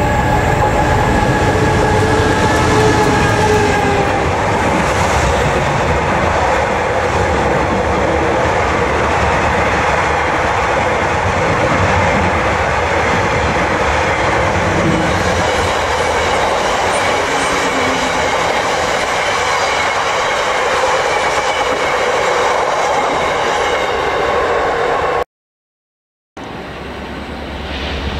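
A Class 59 diesel-hauled freight passes close by: the locomotive goes by in the first few seconds, then a long rake of empty bogie aggregate hopper wagons runs past with a steady rumble and clatter of wheels on rail. Near the end the sound cuts out and a quieter diesel locomotive sound starts and slowly grows louder.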